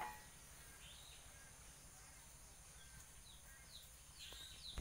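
Near silence outdoors with faint, short, falling bird chirps, a few at first and more frequent towards the end; a faint click near the end.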